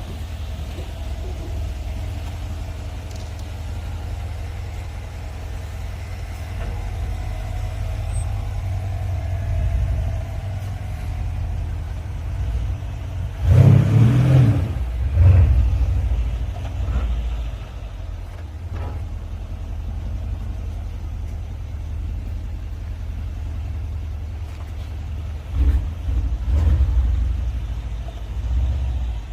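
Mercedes-AMG S63 Coupe's twin-turbo V8 through an aftermarket valve-controlled exhaust with a sport resonator, cruising with a steady low drone. It revs up hard twice, about halfway through and again near the end.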